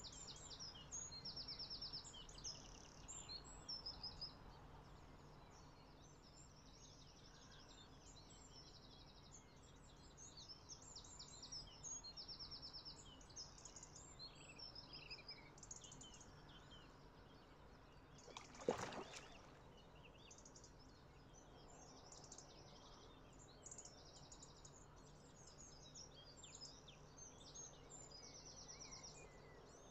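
Faint birdsong: many short chirps and quick trills, with one brief sharp knock a little over halfway through.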